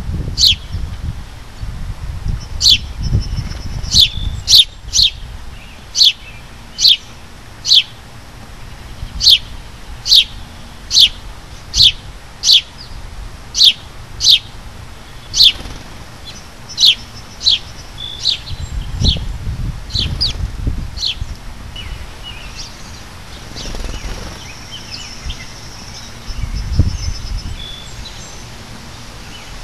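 A backyard songbird giving a long run of short, sharp, downslurred chirps, about one or two a second, stopping a little past halfway, with scattered faint chirps after. Low rumbles come and go underneath.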